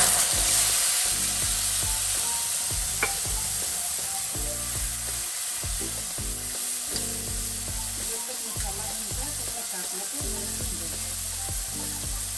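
Tomato pulp sizzling in hot ghee in a kadhai. It hisses loudly the moment it goes in, then settles into a steady, gradually quieter sizzle as it is stirred with a metal spoon.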